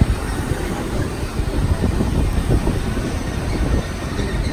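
Passenger train rolling along the track, heard from on board: a steady low rumble of wheels on rail.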